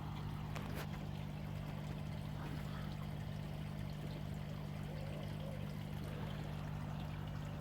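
Koi pond water pouring and trickling steadily, over a steady low hum.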